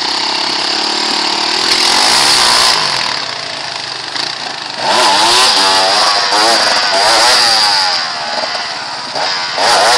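Motocross motorcycle engines revving, their pitch rising and falling quickly over and over. They are loudest from about halfway through.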